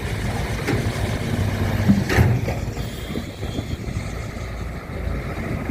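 An engine running steadily, with one sharp knock about two seconds in.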